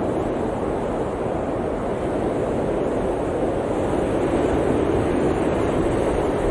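Steady blizzard wind blowing hard, a deep even rushing that swells slightly over the seconds.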